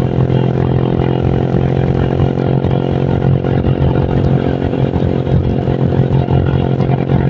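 Honda Vario scooter engine, bored up with a 55 mm piston, running at a steady speed while riding, with a gusty rumble of wind on the microphone.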